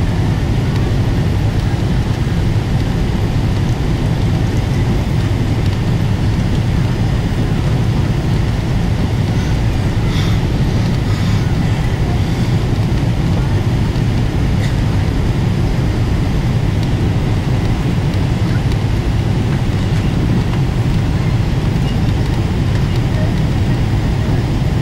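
Steady low rumble of a Boeing 777-300ER's engines and airflow, heard inside the passenger cabin.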